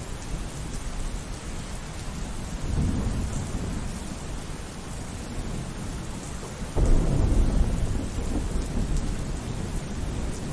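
Steady rain with rolling thunder: a low rumble swells about three seconds in, and a louder thunderclap breaks in suddenly around seven seconds and rumbles away.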